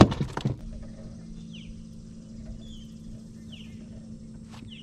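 A bird calling with short, falling chirps about once a second over a steady low hum, after a few knocks at the start.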